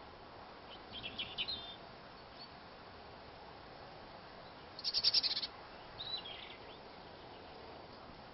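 Three short bursts of rapid, high bird-like chirping over a faint steady hiss, the loudest about five seconds in and the last ending in a falling glide.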